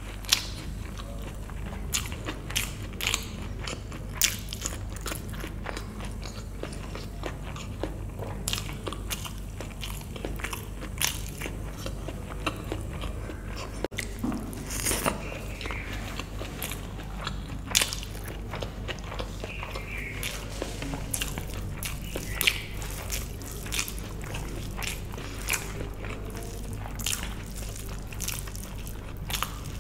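Close-miked eating sounds of a person chewing mouthfuls of vegetable biryani: wet chewing with frequent lip smacks and mouth clicks at irregular intervals. A steady low hum runs underneath.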